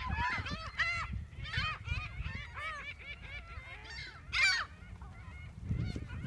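A flock of gulls calling over one another: many short, arched squawks overlapping, with one louder call about four seconds in, over a low rumble.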